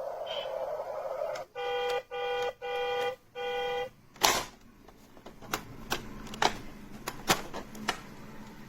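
Toy school bus's electronic sound effect: a buzzy tone that stops about a second in, then four short beeps in a row, followed by a series of sharp plastic clicks from the toy's buttons being pressed.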